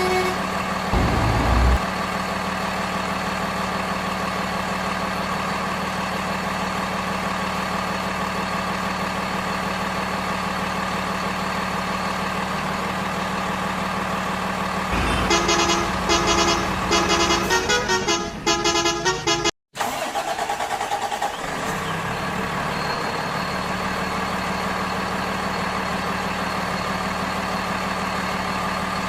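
A steady vehicle engine drone, with a quick series of short horn honks about halfway through that stops abruptly.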